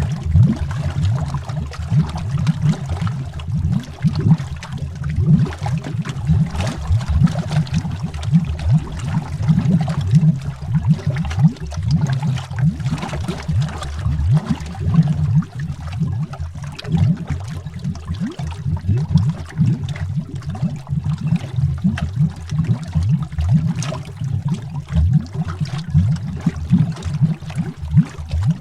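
Continuous underwater bubbling: a dense stream of low, deep bubbles with short rising bloops, heard as if under water.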